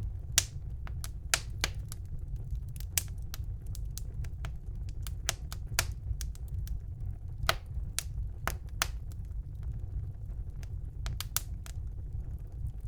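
Wood fire burning in a fireplace: a steady low rumble of the flames with irregular sharp crackles and occasional louder pops from the burning logs.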